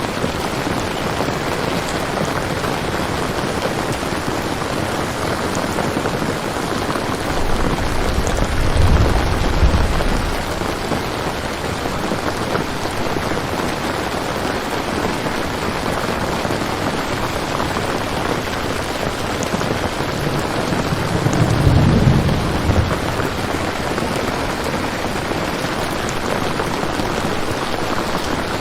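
Steady rain falling, with two low rolls of thunder, one about 8 seconds in and one about 21 seconds in.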